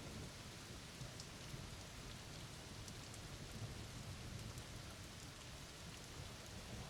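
Steady thunderstorm rain, with scattered drops ticking and a low rumble underneath.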